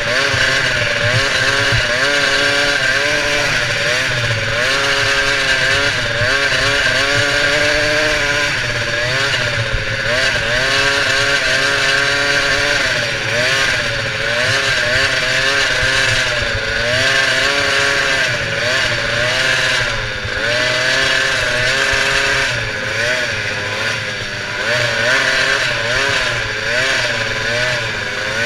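Monster truck engine revving up and down over and over, its pitch rising and falling every second or two without letting up.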